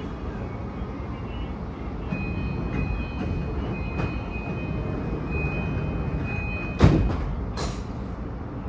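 Interior of a Sobu Rapid Line commuter train standing at the platform: a steady rumble with a faint high tone that breaks on and off, then a sudden loud thump about seven seconds in, followed by a short hiss.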